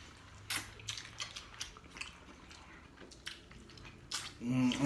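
Close-up eating sounds: chewing with scattered sharp mouth and cutlery clicks. A short hummed voice sound comes near the end.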